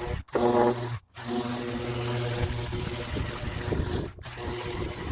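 A small motor running with a steady hum, cutting out briefly three times.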